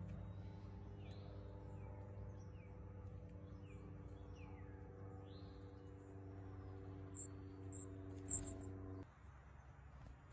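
Several short, downward-sweeping bird calls and a few brief high notes over a steady low mechanical hum that cuts off about nine seconds in. A single sharp click comes just before the hum stops.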